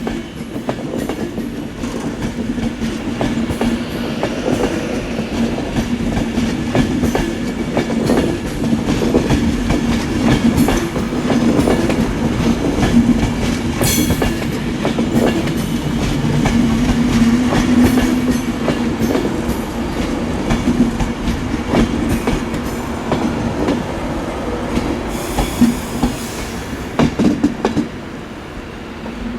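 Avanti West Coast Class 390 Pendolino electric train running slowly into the platform, wheels clicking over rail joints and pointwork, with a steady hum. The sound eases off about two seconds before the end.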